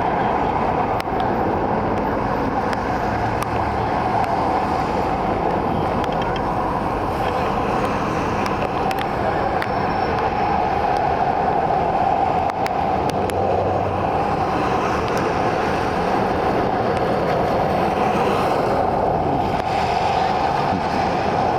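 Steady, dense rain noise with fine scattered drop ticks.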